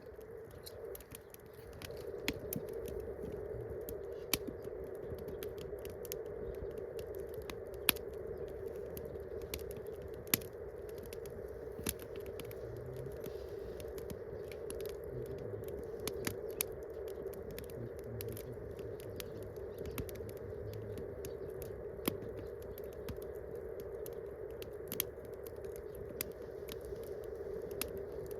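Wood campfire crackling: scattered sharp pops and snaps at irregular intervals over a steady background hum.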